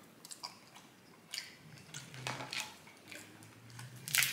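Close-up chewing of snow crab meat: soft, wet mouth clicks and squishes. Near the end comes a sharper crackle as meat is pulled from a crab leg shell.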